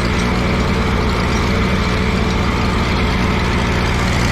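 Allis-Chalmers G tractor's small four-cylinder gasoline engine running steadily at low speed in first gear while the tractor pulls a cultivator.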